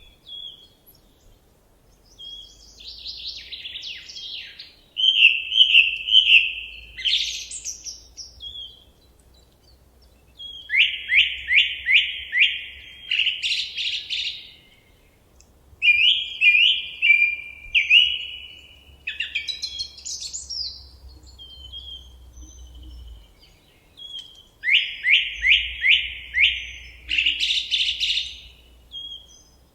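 A songbird singing in separate phrases with short pauses between them. Several phrases are a quick run of about five repeated sweeping notes ending in a higher flourish.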